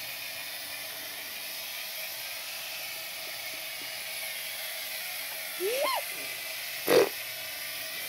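Electric model train running around its track, a steady motor whir. A short rising-and-falling vocal sound near six seconds, and a brief loud sharp sound about seven seconds in.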